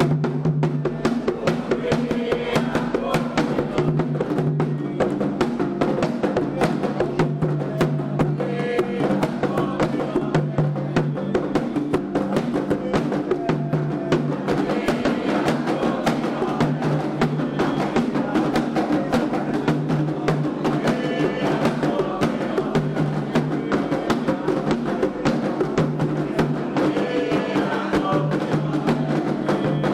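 Candomblé ritual drumming on atabaque hand drums, fast and dense, kicking in suddenly at the start and keeping up a driving, unbroken rhythm.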